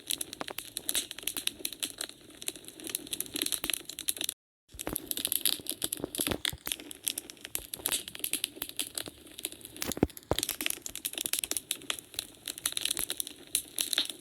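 Wood fire in a fireplace crackling and popping, with dense, irregular snaps of burning logs. About four and a half seconds in, the sound drops out completely for a moment. A sharper single pop comes about ten seconds in.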